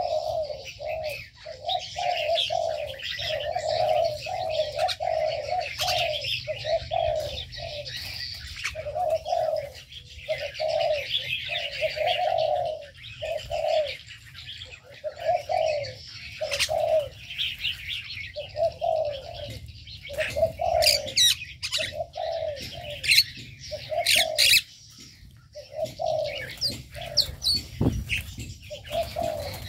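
Doves cooing over and over in short repeated phrases, with small aviary birds chirping and twittering higher above them.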